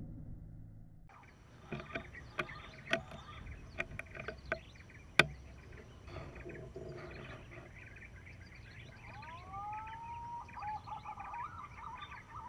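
Wild birds calling: a run of sharp chips and clicks over the first few seconds, the loudest about five seconds in, then a whistled note that swoops up and falls away, followed by a quick warbling whistle near the end.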